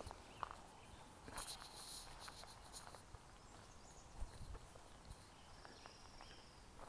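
Faint footsteps of a person walking along a trail, scattered light steps and taps, with a brief scuffing rustle about a second and a half in.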